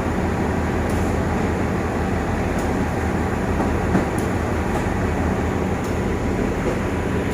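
Diesel locomotive of a standing train running steadily at idle, a low, even hum.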